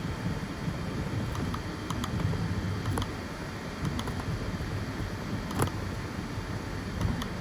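FDM 3D printer running, its stepper motors and fans making a steady low whir, with a few short clicks.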